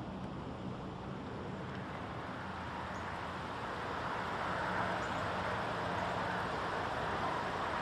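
Steady rushing background noise with a faint low hum underneath, swelling a little about halfway through.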